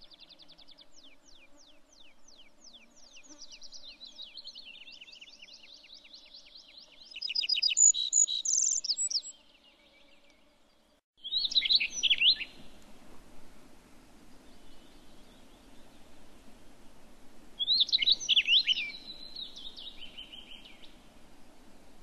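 European bee-eaters calling: runs of rapid, rolling trilled notes, loudest a few seconds past the middle of the first half. After a short lull come two loud chattering bursts, about six seconds apart.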